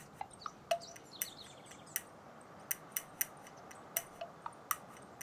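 Birds chirping: about a dozen short, sharp calls scattered irregularly over a faint, steady outdoor hiss.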